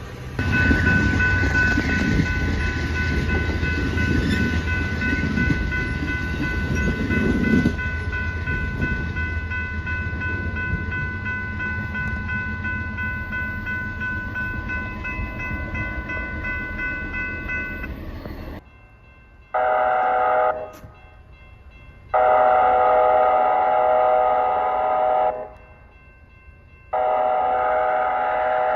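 A train rumbles through a railroad grade crossing while the crossing bell rings steadily. The rumble fades about a third of the way in. Then an approaching Amtrak locomotive sounds its horn in three blasts: a short one, then two long ones.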